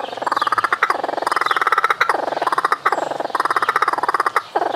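Laughing kookaburra giving its laughing call: fast chuckling notes in rolling phrases that rise and fall in pitch, repeating about once a second.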